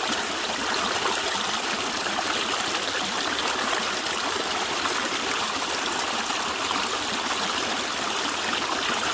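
A natural stream running over stones, a steady gurgling and trickling flow of water.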